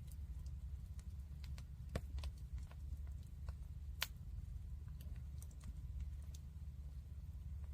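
Campfire crackling: scattered sharp pops at irregular intervals, the loudest about four seconds in, over a steady low rumble.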